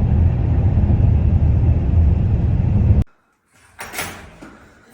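Car driving, with loud, steady road and engine rumble that cuts off suddenly about three seconds in. A single sharp thud follows about a second later.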